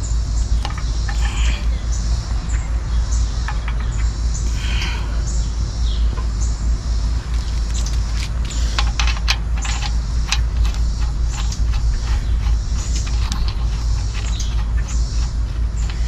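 A steady low rumble, with short high chirps, like birds, scattered over it and a quick run of sharp clicks about halfway through.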